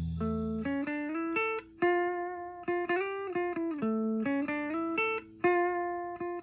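Music: a lone guitar picking a single-note melodic riff, with two brief pauses in the line.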